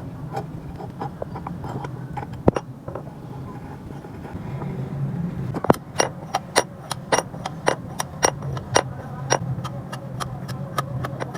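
A run of sharp metallic clicks with a bright ring, about two a second, starting about halfway through, over a steady low hum. A lone click sounds earlier, between two and three seconds in.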